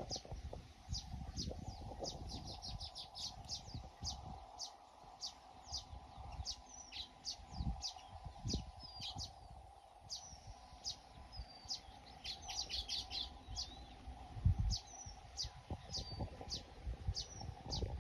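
A flock of small birds chirping at nests: a steady run of short, high chirps, several birds overlapping at times. Low thumps and rumbles sound beneath them.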